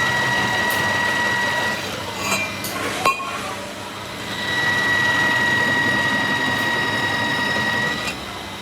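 A workshop machine gives a steady high whine. The whine stops about two seconds in and starts again about four seconds in, running until near the end. A few metal clinks fall in the gap.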